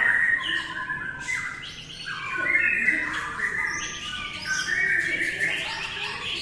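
White-rumped shamas (murai batu) singing, with several birds' fast, whistled phrases overlapping without pause.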